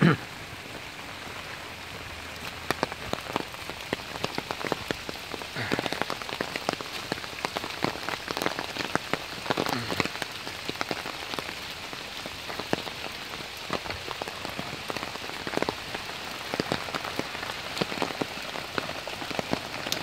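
Steady rain falling, with many sharp individual drop hits close by over an even hiss.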